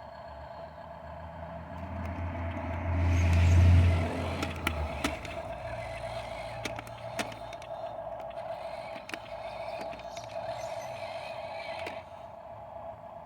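Huina 1573 radio-controlled dump truck running: a steady motor whine, with a loud low rumble that swells about three to four seconds in and dies away, then scattered sharp clicks.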